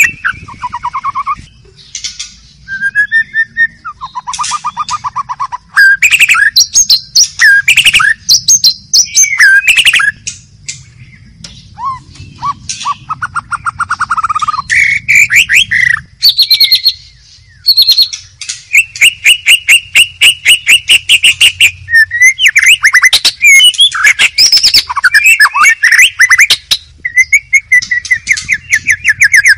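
White-rumped shama (murai batu) singing a loud, varied song: whistled phrases and gliding notes mixed with buzzy trills, and in the second half long, fast rattling series of sharp repeated notes.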